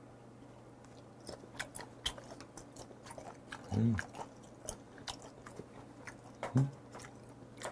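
Close-miked chewing of raw red sea bream sashimi: wet mouth clicks and smacks, with two short hums of enjoyment, a little before and after the middle.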